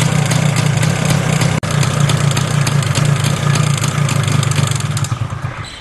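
Enfield Fury's 175 cc two-stroke single-cylinder air-cooled engine idling steadily, with its exhaust note heard close up. A momentary break comes about a second and a half in, and the sound fades out at the very end.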